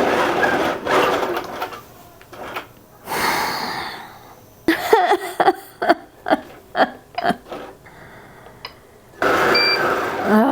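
Grace longarm quilting machine sewing a test run, stopping about two seconds in. Around the middle come about eight short, sharp pulses in quick succession, and near the end the machine runs again, with a brief tone just before it stops. The machine keeps breaking thread and will not form a stitch.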